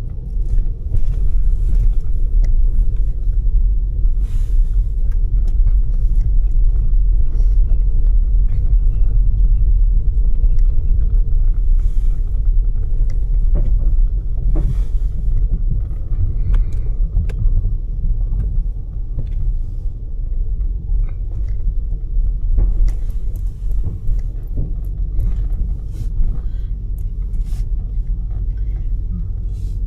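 Steady low rumble of a moving vehicle, with scattered faint clicks and knocks.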